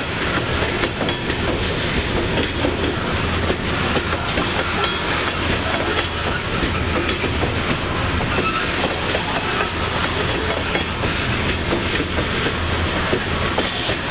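Union Pacific freight train's covered hopper cars rolling past: a steady rumble with a constant clatter of wheels over the rails.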